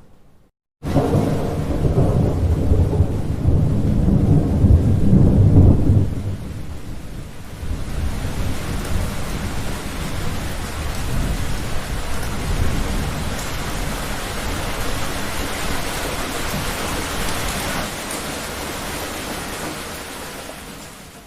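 Thunderstorm: after a moment of silence, a loud roll of thunder breaks in about a second in and rumbles for about five seconds. Then steady heavy rain goes on with fainter rumbling, fading out near the end.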